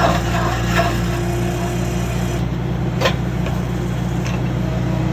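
Stump planer grinding into wood over the steady low drone of the machine driving it: rough shredding for the first two seconds or so, then lighter, with a single sharp crack about three seconds in.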